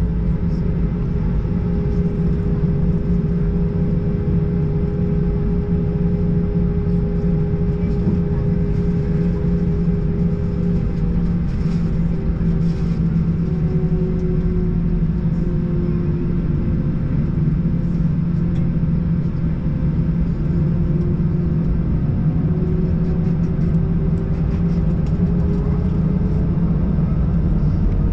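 Airbus A321 cabin noise heard from a window seat: a steady low rumble with a hum, and a fainter whining tone that slowly dips in pitch partway through and rises again.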